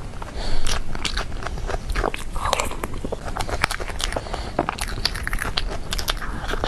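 Close-miked chewing of a soft, sticky dessert: many small wet smacks and mouth clicks in an irregular run.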